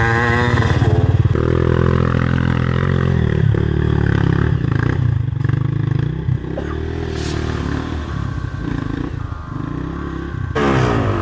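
Dirt bike engine running at low revs with blips of the throttle, rising in pitch near the start and then varying, with some clattering of the bike over rough ground.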